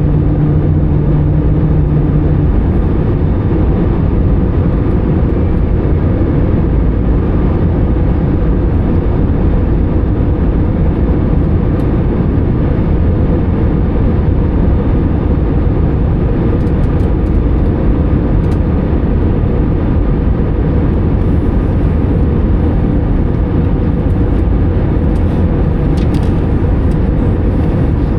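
Steady cabin noise of an Airbus A320 in flight: rushing airflow and its CFM56 engines running, heard from inside the cabin. A steady low tone stops about two and a half seconds in.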